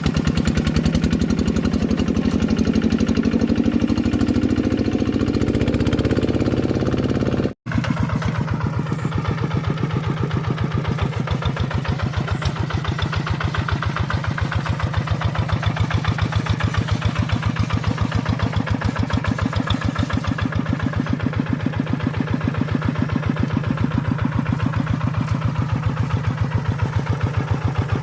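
Tractor engine running with an even, rapid beat. Over the first seven seconds a higher tone rises steadily in pitch. After a momentary break the engine runs on steadily.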